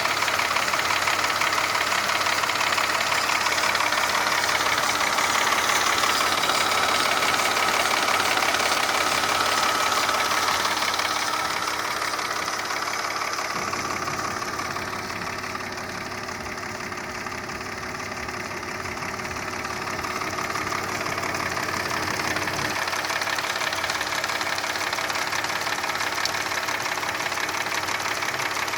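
Mercedes-Benz M112.914 2.6-litre V6 engine running steadily with a knock from the piston and cylinder group. The sound grows quieter in the middle stretch, then louder again.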